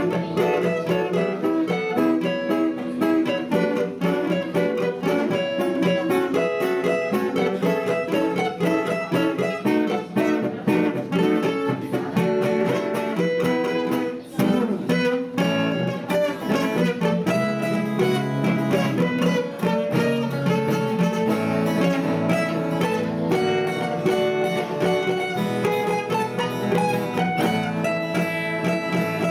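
Two acoustic guitars playing a duet, plucked melody notes over strummed chords at a steady pace.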